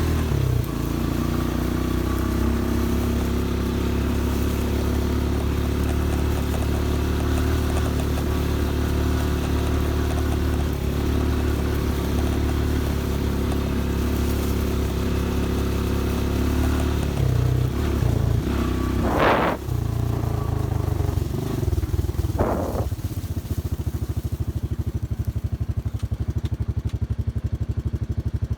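Vehicle engine running steadily at a constant speed, with two brief louder sounds about two-thirds of the way through and a pulsing beat near the end.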